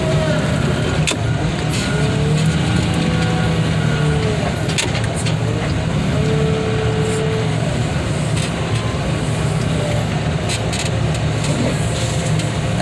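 Heavy diesel machinery running steadily, with a whine that shifts in pitch now and then and occasional sharp metallic clanks.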